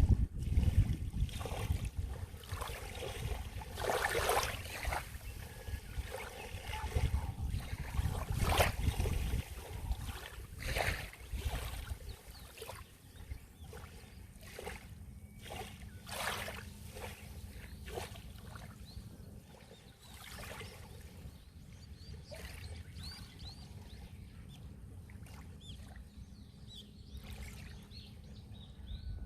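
Sea waves washing in against the shore, with separate splashes every few seconds over a low rumble that eases off after about ten seconds.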